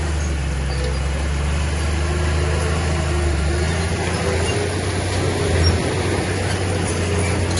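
Heavy diesel engine of earthmoving machinery running with a steady low drone, briefly louder about three quarters of the way through.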